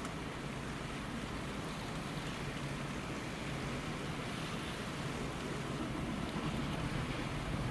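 Strong wind and rough sea making a steady rushing noise, with a low steady hum from the ship's machinery underneath, a little louder near the end.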